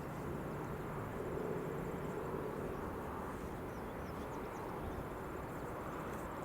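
Distant diesel locomotives giving a low, steady drone, a little stronger in the first couple of seconds, with faint bird chirps and a faint fast ticking of insects above it.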